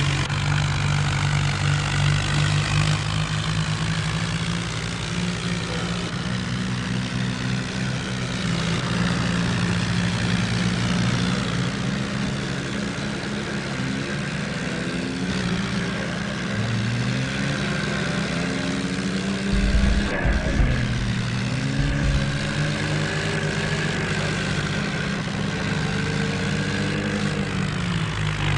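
Tractor diesel engine running steadily, its revs rising and falling several times in the second half. About two-thirds of the way in there is a short, louder burst of low rumbling.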